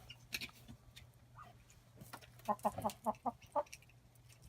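Chicken clucking: a quick run of about six short clucks, starting a little over two seconds in.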